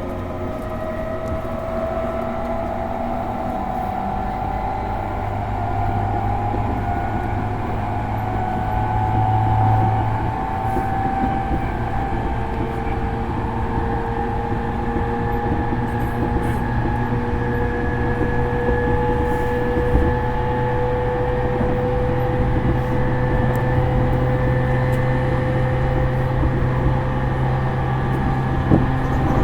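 E231-series commuter train's VVVF inverter and traction motors whining, heard from inside the motor car, the tones rising slowly in pitch and getting gradually louder as the train accelerates, over steady running noise from the wheels and rails.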